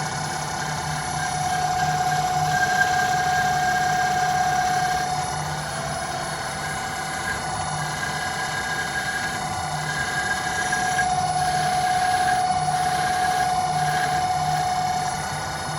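Homemade CNC lathe running, its motors giving a steady whine over a pulsing hum that grows louder twice.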